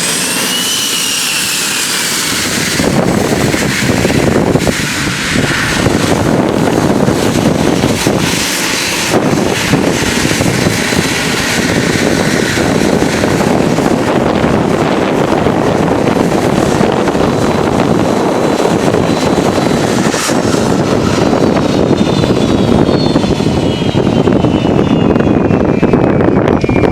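Cessna Citation Bravo's twin Pratt & Whitney PW530A turbofans whining as the jet passes, the whine dropping in pitch, over a loud, ragged rushing rumble. A second whine glides steadily downward near the end.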